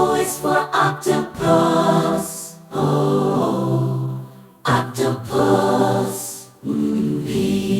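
Children's alphabet phonics song being sung, with short held sung notes and brief breaks, most likely the lines 'is for octopus, O, octopus. P is for…'.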